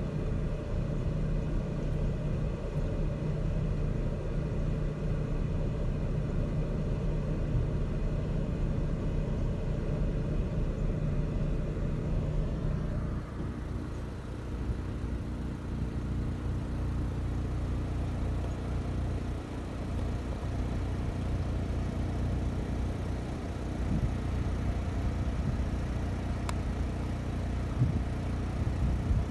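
A stopped vehicle's engine idling steadily with a low hum; the tone of the hum changes about halfway through.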